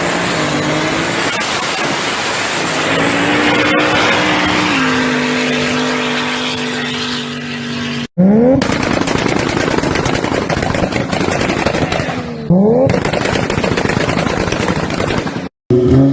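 Car engines revving and accelerating through the gears, in clips cut one after another. The engine pitch climbs, holds, then drops as a gear changes. After a cut, another engine rises in pitch twice over a rapid, dense crackle from the exhaust.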